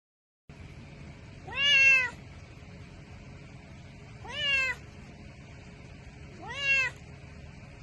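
A cat meowing three times, about two and a half seconds apart, each call rising in pitch. The first call is the loudest. A steady low hum runs underneath.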